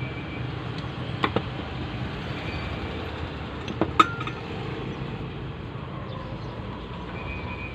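Small metal fan-motor parts being handled: a few light clicks about a second in and one sharper metallic clink with a short ring about four seconds in, over steady background noise.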